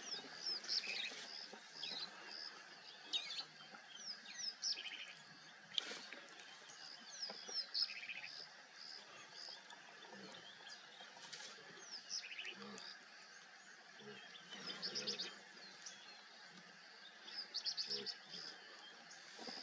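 Several wild birds chirping and whistling in short, repeated high notes, some sweeping downward, with a few soft low rustles.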